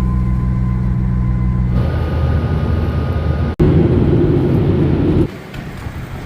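Steady vehicle running noise with a low hum, in several short clips cut together: the sound changes about two seconds in, cuts off sharply and returns louder and rougher, then drops to a quieter rumble near the end.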